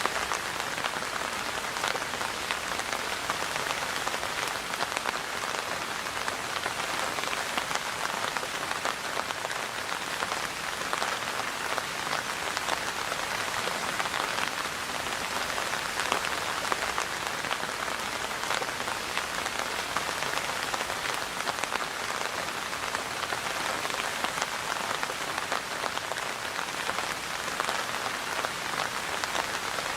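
Steady rain falling on a surface, a constant even patter dotted with many small drop ticks.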